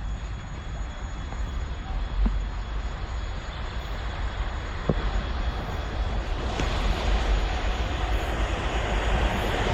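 Freight train hauled by a VL11.8 twin-section electric locomotive approaching, its rumble and rail noise growing steadily louder over the second half. Two short clicks at about two and five seconds in.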